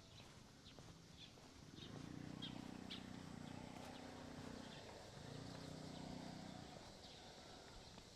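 Footsteps on pavement ticking about twice a second, with a faint low hum that sets in about two seconds in and fades near the end, broken briefly after five seconds.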